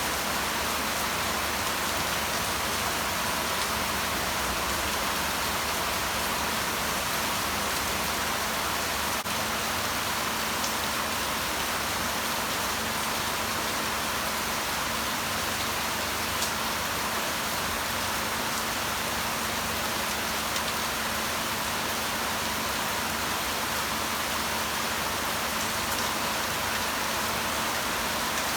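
Steady rain falling, an even hiss with a few faint ticks of drops here and there.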